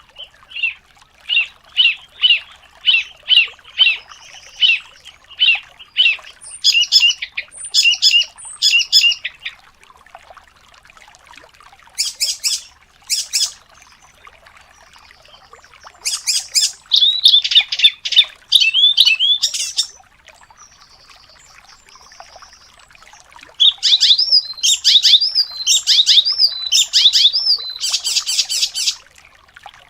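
Songbird singing fast, dense phrases: a run of repeated chirps about two a second, then clusters of sharp high notes, in four bursts separated by pauses of a few seconds.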